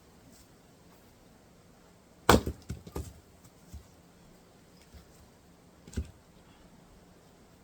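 Firewood being split by hand: one sharp loud crack of a strike and splitting log about two seconds in, followed by a brief clatter of the pieces falling, then one more lighter wooden knock about six seconds in.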